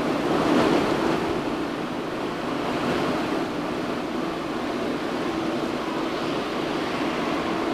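Steady rushing wind noise buffeting the microphone, with a faint low hum underneath.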